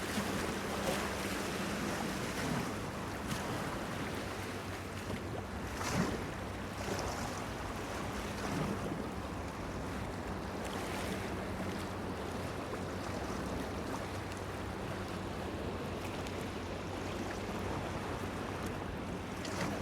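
Waves washing and slapping against a pier, with a few sharper splashes, the strongest about six seconds in, over a faint steady low hum.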